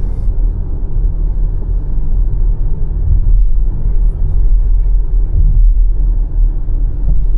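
Steady low rumble of a car's engine and tyre noise while driving, heard from inside the cabin.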